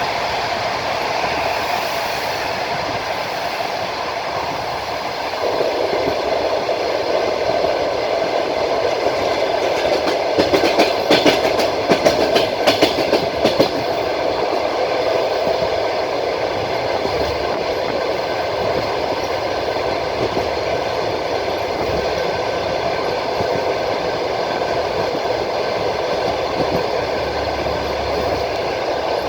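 Passenger train running at speed, heard from inside a carriage: a steady rumble of wheels on rails. Between about ten and fourteen seconds in there is a run of sharp wheel clacks over rail joints.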